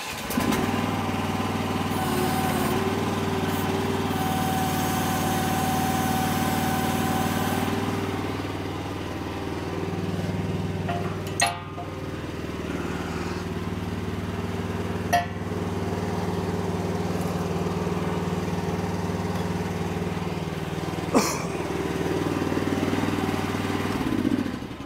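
Chinese mini excavator's small engine running steadily while the boom and stick are raised by its hydraulics. A thin whine rises over it for a few seconds about four seconds in. Three sharp clicks or knocks come later on.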